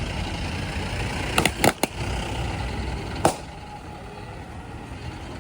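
Heavy diesel machinery running at a loading site, with a quick cluster of sharp knocks about a second and a half in and one more knock about three seconds in, after which the engine sound drops lower.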